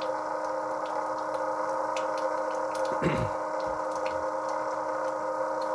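A battery-powered 12-volt oil transfer pump running steadily with a constant whine, drawing the used oil out of a Caterpillar 3208 marine diesel's sump. Scattered light ticks sound over it, and there is a brief low sound about three seconds in.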